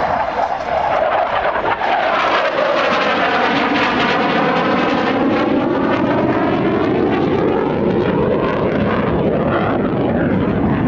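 F-16 fighter jet making a pass, its engine noise loud and steady throughout, with a swirling tone that sweeps down and then back up as the jet goes by.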